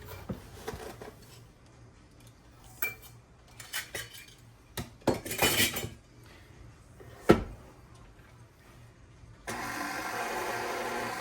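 Kitchen bowls and utensils clinking and knocking as sugar is measured out, with a short rushing scrape about five seconds in and one sharp knock about seven seconds in. Near the end an electric mixer's motor switches on and runs steadily, mixing sugar and molasses into brown sugar.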